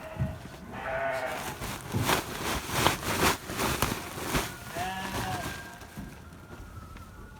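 Sheep bleating: a wavering call about a second in and another around five seconds in, with repeated short knocks and rustles in between.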